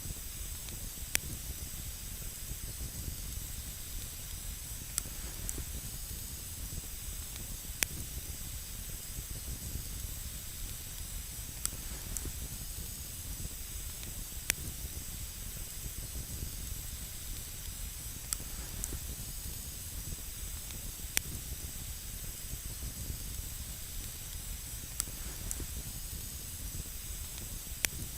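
Campfire burning with a steady hiss and a single sharp crackling pop from the wood every few seconds.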